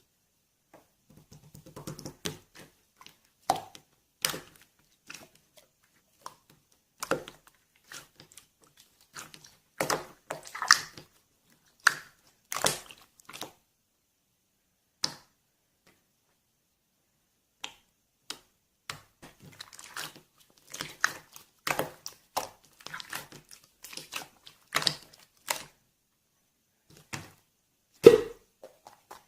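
Slime being squeezed, stretched and poked by hand: irregular sticky squishes and sharp little clicks and pops, with a silent pause of a few seconds about halfway through.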